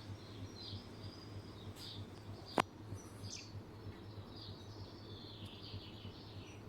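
Small birds chirping repeatedly over a steady low hum, with one sharp click about two and a half seconds in.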